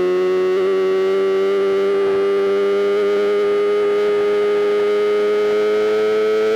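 Sportbike inline-four engine held at high revs under steady acceleration, a smooth high-pitched howl that climbs slowly in pitch without a gear change.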